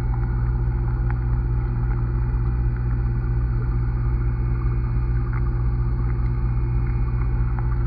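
Steady low underwater hum and rumble picked up by a camera submerged in a pond, with a few faint clicks.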